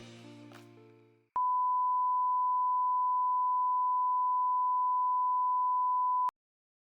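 Background music fading out, then a single steady electronic beep at one pure pitch, like a 1 kHz test tone, held for about five seconds and cut off abruptly.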